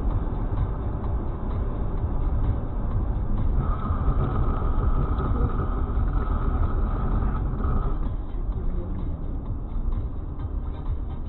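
Steady road and engine rumble of a car driving, as picked up by a dash cam. In the middle, a steady high-pitched tone sounds for about four seconds and then stops.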